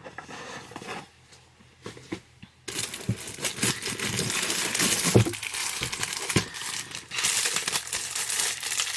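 A few light knocks, then from about three seconds in, packaging being handled: paper or plastic wrapping crinkling and rustling loudly as items are pulled out of a box, easing briefly before picking up again.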